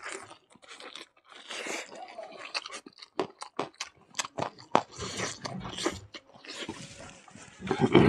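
Close-up eating sounds of a man eating rice and pork by hand: open-mouthed chewing, crunching and a quick run of sharp wet clicks, with a louder burst near the end.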